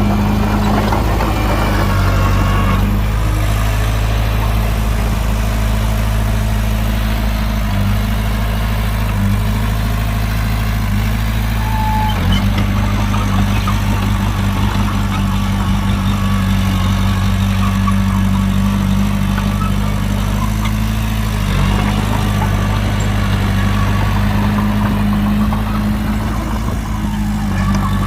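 Heavy diesel engine of a construction vehicle idling steadily at low revs, its pitch shifting slightly a few times.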